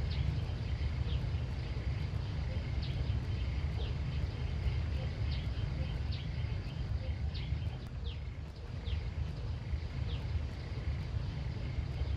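Outdoor countryside ambience: a steady low rumble with small birds chirping over it, short quick calls coming irregularly, about one or two a second.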